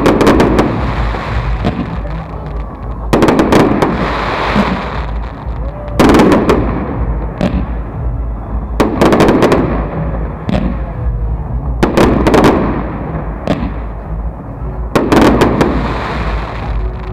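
Fireworks salute: aerial shells bursting in volleys about every three seconds, six in all. Each volley is a heavy boom followed by rapid crackling.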